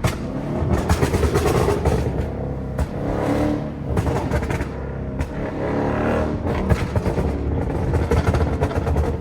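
Tuned Dodge Charger Daytona 392's 6.4-litre HEMI V8 running steadily while the car is driven, with music playing alongside.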